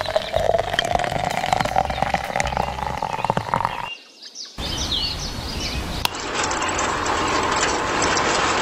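Water trickling from a small plastic cap into an open metal drink can, with a tone that rises steadily in pitch as the can fills. After a brief break, a steady whirring noise takes over for the last couple of seconds.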